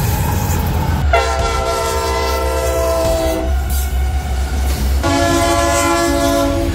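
Diesel locomotive's multi-chime air horn sounding chords of several notes together: a blast ends right at the start, a long blast comes about a second in, and another begins near the end after a short gap. A steady low locomotive rumble runs underneath.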